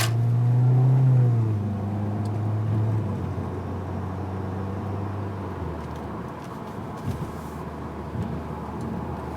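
Exhaust note of a 2012 Audi A4's turbocharged 2.0-litre four-cylinder through a stainless turbo-back exhaust with a high-flow cat. The engine revs up briefly, peaking about a second in, then falls back to a steady low note.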